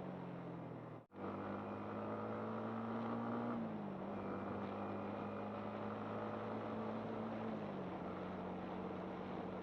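Yamaha MT-15's single-cylinder engine running while riding, its note holding steady and stepping down in pitch twice, as with easing off or shifting up a gear. The sound cuts out briefly about a second in.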